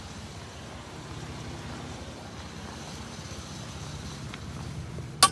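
Vehicle engine idling with a steady low hum. Near the end, a single sharp click as a magnet snaps onto the piece, showing it is steel rather than brass.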